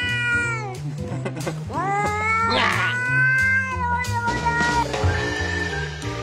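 A cat meowing in long, drawn-out calls: one falls away about a second in, then another rises and is held for about three seconds. Background music with a bass line plays underneath.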